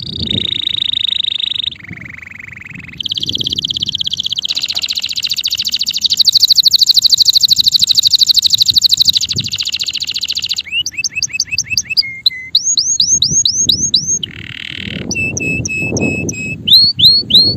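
Male canary singing a long song: fast rolling trills, then runs of short rising whistled notes repeated several times a second.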